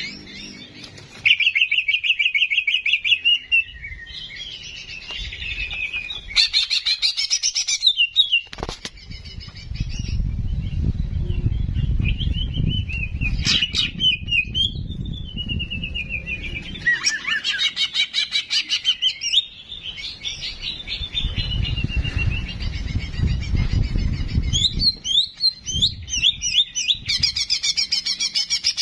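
Ki Jenggot (cicak jenggot) songbird singing in repeated phrases of rapid high chattering trills and sharp chirps, with a low rumbling noise underneath in two long stretches.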